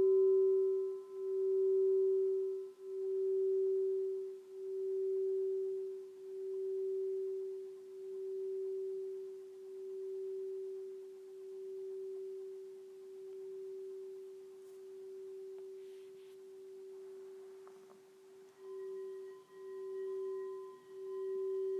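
Alchemy crystal singing bowl ringing one long tone with a slow wavering beat, fading gradually. About eighteen seconds in it is struck again and rings louder, with higher overtones added.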